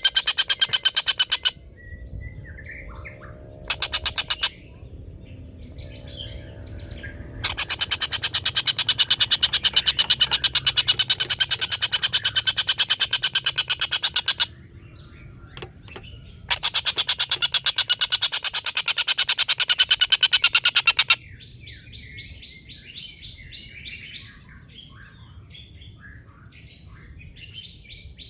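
Tengkek buto kingfisher giving its long, loud cackling chatter ('ngekek panjang'), a very fast run of repeated harsh notes. It comes in four bouts, the longest about seven seconds. Quieter chirps and short calls from smaller birds fill the gaps and the last seven seconds.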